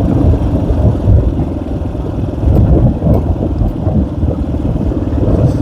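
Small enduro motorcycle engine running under way, its firing pulses continuous with the loudness rising and falling.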